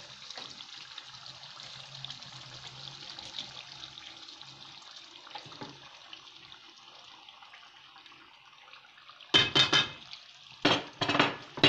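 Chicken masala frying in ghee in a metal pot, a low steady sizzle: the masala has released its ghee. Near the end come a few short, louder bursts as yogurt is poured into the hot pot and stirred.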